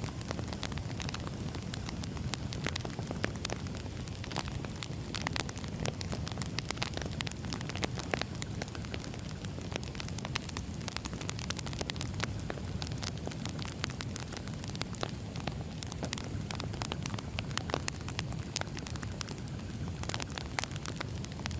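Wood fire crackling: many irregular sharp pops and snaps over a steady low rumble of burning logs.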